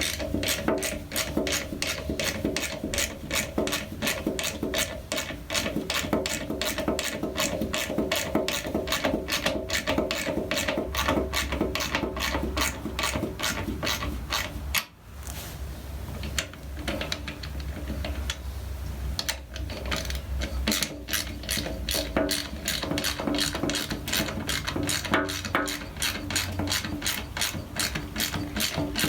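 Hand ratchet wrench clicking steadily as it is worked back and forth on a fastener, about three clicks a second, with a short pause about halfway through.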